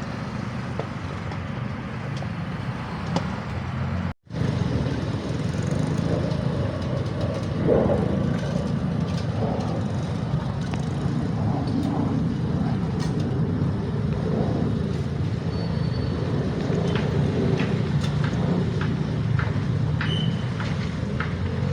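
Steady low rumble of vehicle noise, cut off abruptly for a moment about four seconds in and then resuming.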